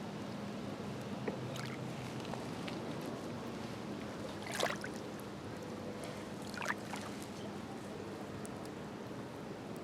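Small waves lapping at the lake shore, with brief louder splashes about halfway through and again about two seconds later.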